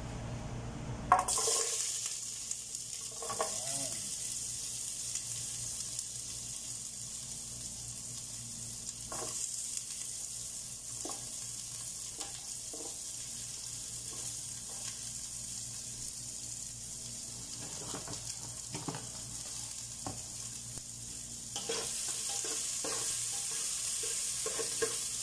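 Onions frying in hot oil in a large cooking pot: a knock about a second in as they go in, then a steady sizzle with scattered taps and scrapes of a spatula stirring. The sizzle grows louder near the end as they are stirred.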